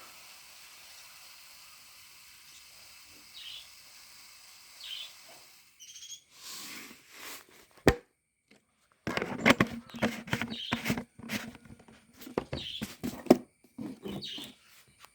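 Budgerigars chirping in short high calls, a few at first and then more often, mixed with sharp clicks and knocks from about halfway through over a faint steady hiss.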